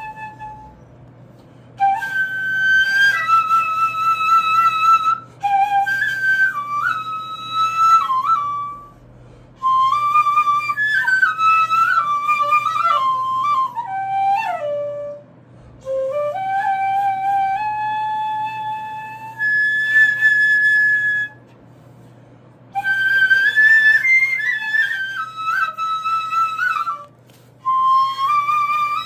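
Iwabue, a Japanese natural stone flute, played solo: a slow melody of held notes stepping and sliding between pitches, in phrases broken by short pauses for breath.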